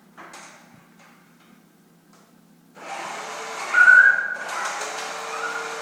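A remote-control toy pickup truck's small electric motor starts whirring about three seconds in and runs steadily. A brief high whistling tone comes near four seconds.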